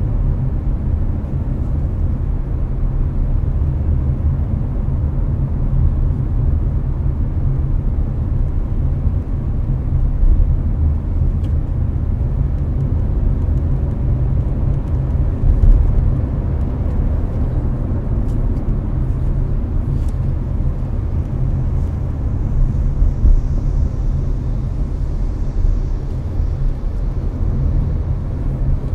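Steady low road and engine rumble inside a Hyundai Avante's cabin at expressway speed, with the air conditioner blowing. A few small bumps and faint ticks come through, around the middle and again later on.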